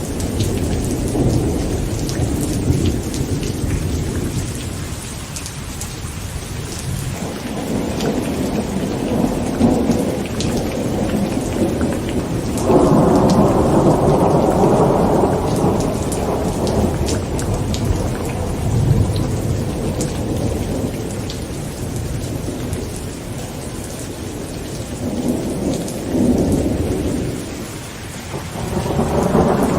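Heavy rain on a tent with rolling thunder: a steady patter of drops under several long rumbles that swell and fade. The loudest roll starts about halfway through, and another builds near the end.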